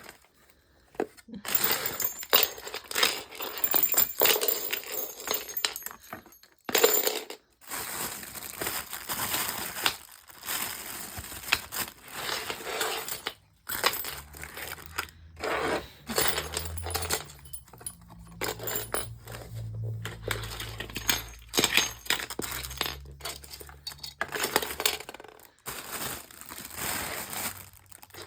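Small bird toys, mirrors and perches being handled and set down on a surface: irregular clinks, clatters and rattles with short pauses. A low hum sounds for several seconds in the middle.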